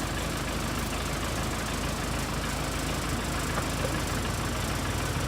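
Backhoe engine running steadily at idle, a low even rumble.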